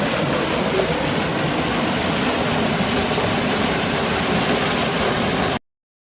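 Waterfall rushing, a loud steady roar of falling water that cuts off abruptly near the end.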